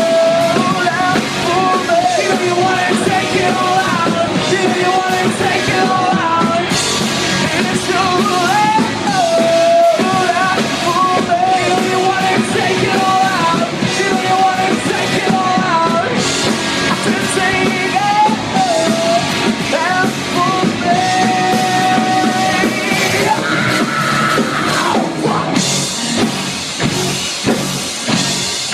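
Live rock band playing: distorted guitars, bass and drum kit under a sung lead vocal. Near the end the vocal slides down in pitch.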